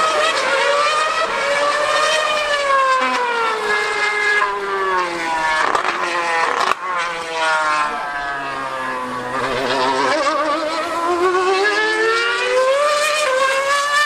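High-revving V8 engine of a 2013 Formula 1 car screaming on track, its pitch sweeping up and down as it accelerates and slows, with a brief break about halfway.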